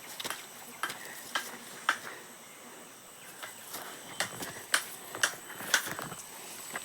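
Footsteps through forest undergrowth: irregular sharp snaps and crunches about every half second, pausing briefly about two seconds in, then picking up again.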